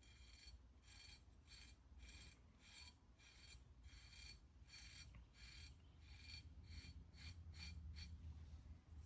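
A steel plane iron rubbed back and forth on a sharpening stone, making faint, even scraping strokes about two a second.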